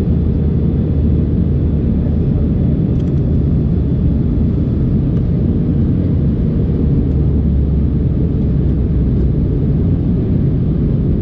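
Steady cabin drone inside an Airbus A321neo: a low, unbroken rush of engine and airflow noise with a faint steady hum over it.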